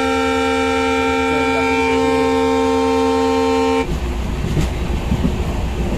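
Train horn sounding one long, steady blast that cuts off about four seconds in, followed by the noise of the moving train.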